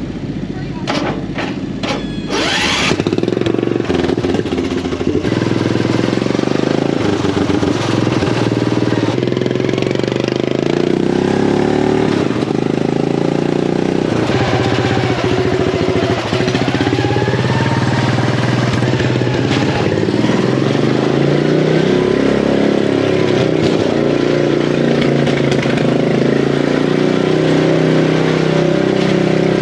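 Craftsman riding-mower engine with a swapped carburetor and an open header, catching after a couple of seconds of short pops and then running loud and steady, its pitch rising and falling at times.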